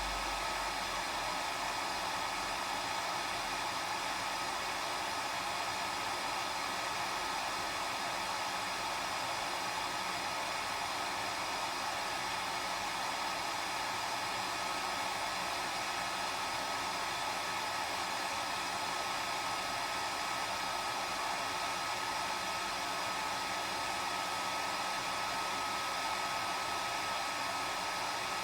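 Hair dryer running steadily: an even rush of air with a steady motor whine, unchanging throughout.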